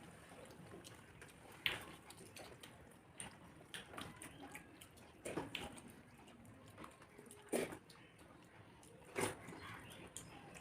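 Faint eating sounds: chewing and wet mouth smacks, with short, slightly louder sounds about every two seconds.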